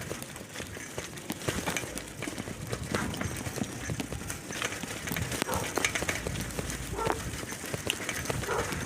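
Bicycle rattling with irregular clicks and knocks while being ridden over a rough surface, with low wind rumble on the microphone at times.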